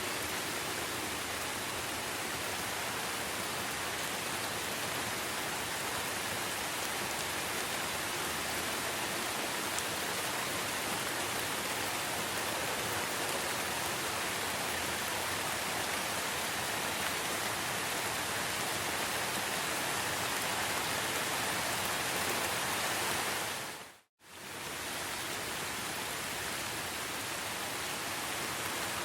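Steady rain falling, an even hiss with no single drops standing out. About four-fifths of the way through it fades out to silence for a moment and fades straight back in, like a loop join in the recording.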